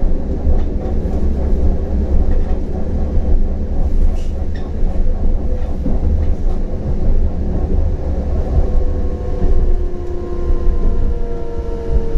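CAF Urbos 100 tram running along the line with a steady low rumble and scattered faint clicks from the track. Starting about two-thirds of the way in, the electric drive's whine falls slowly in pitch as the tram slows.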